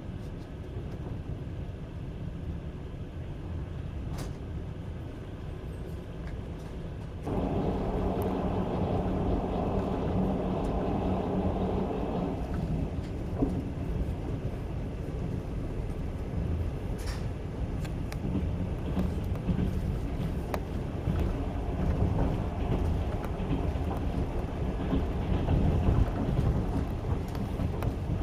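Trans-Siberian passenger train running along the line, heard from inside the carriage: a steady low rumble of wheels on rail. It turns suddenly louder about seven seconds in and stays so.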